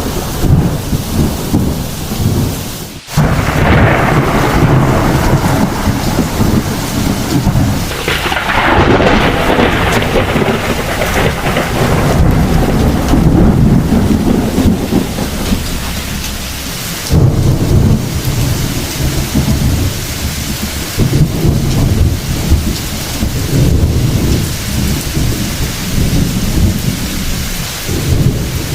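Heavy rain with thunder rumbling almost continuously. Stronger rolls of thunder swell about three and eight seconds in.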